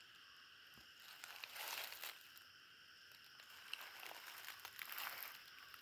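Footsteps crunching and rustling on dry forest leaf litter, in two short spells, over a steady high-pitched insect chorus.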